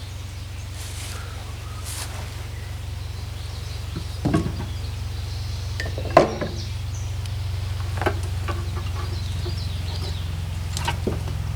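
A few separate knocks and clunks from handling the barrel and its mounting parts, the loudest in the middle, over a steady low hum.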